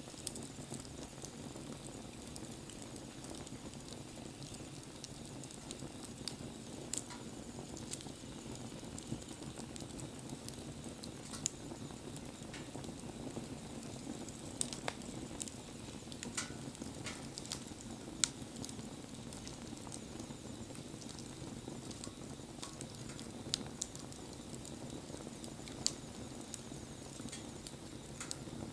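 Wood bonfire burning: a steady low rush from the flames with scattered sharp pops and crackles from the burning wood.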